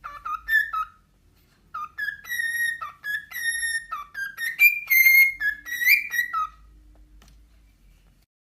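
A pet bird whistling a tune: a short phrase, a pause of about a second, then a longer run of sliding whistled notes.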